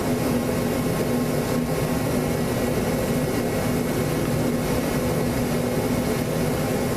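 Small glow-plug engine of a micro mini pulling tractor running steadily at an even pitch.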